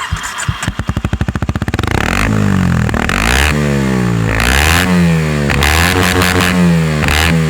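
Kawasaki Z125's 125 cc single-cylinder four-stroke engine through a Leovince aftermarket exhaust: it fires up with about two seconds of rapid, uneven firing pulses, then settles and is blipped in a series of quick revs, rising and falling several times.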